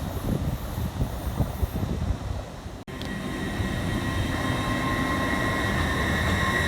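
An uneven low rumble that cuts off sharply about a third of the way in. Then a train approaches, growing steadily louder, with a steady high whine over its rumble.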